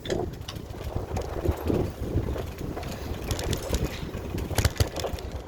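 Wind buffeting the microphone while riding a bicycle: a steady low rumble, with scattered clicks and rattles, most of them between about three and five seconds in.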